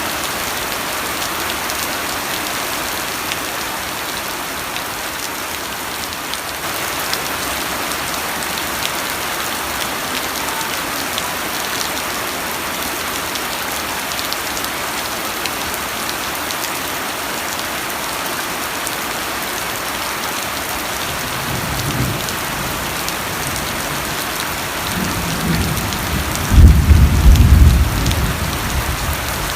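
Steady rain falling, an even hiss of drops. Thunder rumbles low in the last third: faint at first, then building to its loudest a few seconds before the end.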